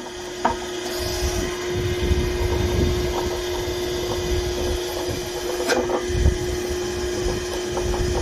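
Hydraulic log splitter running with a steady hum while wood is forced apart, with sharp cracks of splitting wood about half a second in and again near six seconds.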